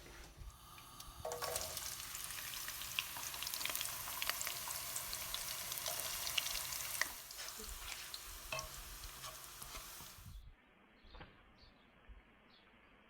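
Food sizzling in hot oil in a pan, with scattered crackles. It starts about a second in, eases off about seven seconds in, and cuts off suddenly near the end.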